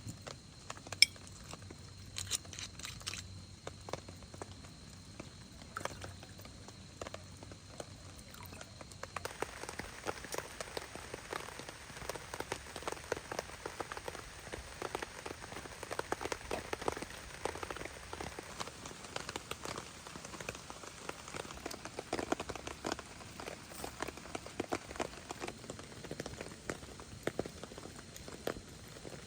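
Rain pattering in many small drops. Sparse for the first nine seconds or so, then abruptly much denser and steady.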